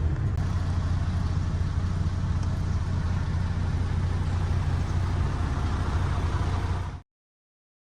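MAN TGX 26.480 tractor unit's straight-six diesel engine idling steadily, cutting off suddenly about seven seconds in.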